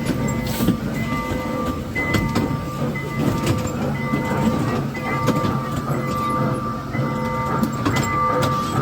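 Small mall ride train running, with a steady low rumble and scattered clicks and rattles. Over it a simple electronic tune of plain held notes plays, switching between a few pitches.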